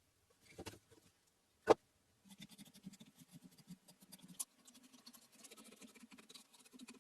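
A soft knock, then one sharp click, then steady rapid scratching of an abrasive or file rubbed by hand on the workpiece.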